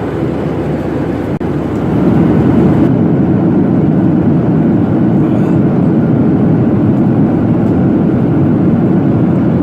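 Steady cabin noise of a Boeing 737-800 in flight: airflow and the CFM56 engines heard from a window seat. It dips briefly about a second and a half in, then gets louder about two seconds in.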